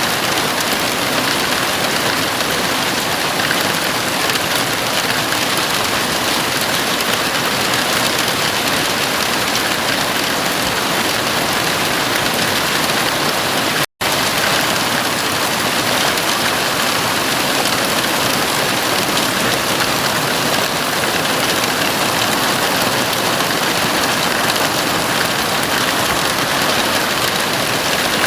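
Heavy rain falling steadily on a house roof, a dense, even hiss. About halfway through, the sound cuts out completely for a split second and then resumes unchanged.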